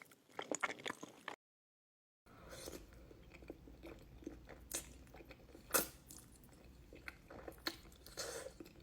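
Close-up eating sounds: a person biting, crunching and chewing food, with sharp crunchy clicks. About a second and a half in, the sound cuts to total silence for under a second, then the chewing resumes more sparsely over a low hum.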